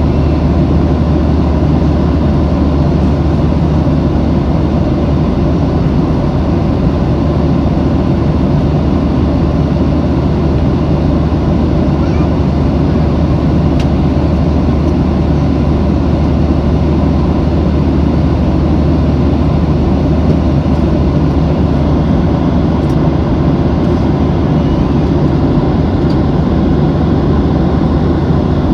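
Steady roar of an airliner in flight, heard from inside the passenger cabin: a deep, even rumble of engine and airflow noise with a faint steady hum, unchanging throughout.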